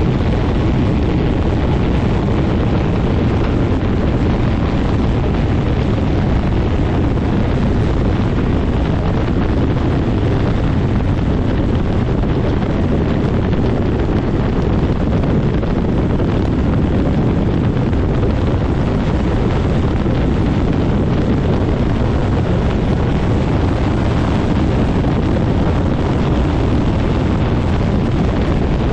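Quicksilver MX ultralight's engine and propeller running steadily at a constant pitch, with heavy wind buffeting the microphone from the prop blast.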